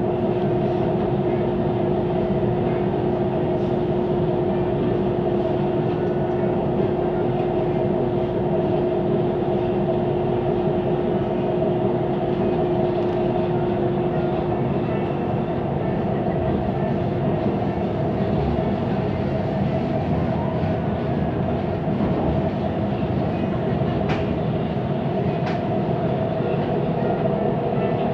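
Interior of a Siemens Inspiro metro car running between stations: steady wheel-on-rail rolling noise with a constant droning hum, one pitch of which fades out about halfway through. A couple of faint clicks come near the end. The ride is noted for an unusual rolling noise.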